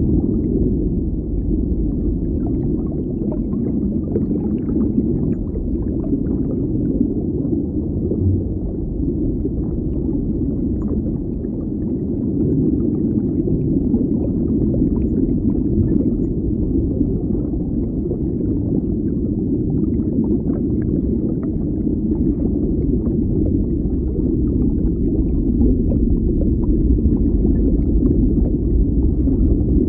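Underwater ambience: a steady low rumble of water with faint scattered crackles and pops throughout.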